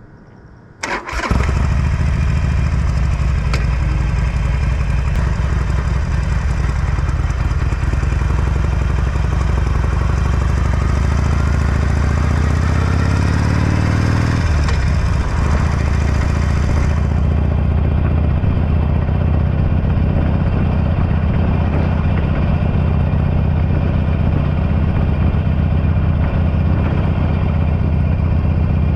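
Harley-Davidson Forty-Eight's air-cooled V-twin, breathing through a Belles Performance aftermarket exhaust, starting about a second in and settling into a steady, loud idle. Around the middle the revs climb slowly for a few seconds, then drop sharply back to idle.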